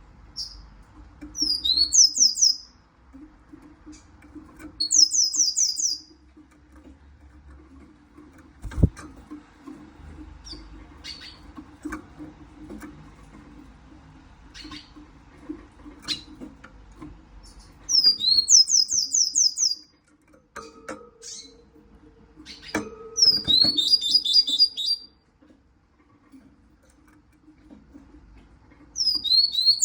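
Siskin calling in about five short bursts of rapid high chirps, each burst opening with a downward-swept note. Light clicks are scattered between the bursts, with one louder thump about nine seconds in.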